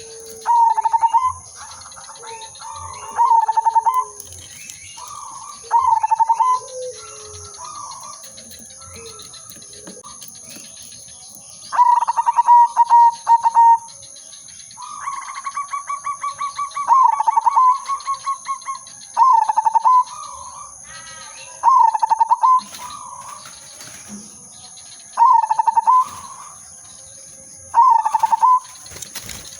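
Zebra dove (perkutut) cooing: short rolling coo phrases repeated every two to three seconds, with a longer stuttering trill of a phrase about halfway through. A second, lower-pitched bird calls in the first few seconds, and a steady high-pitched whine runs underneath.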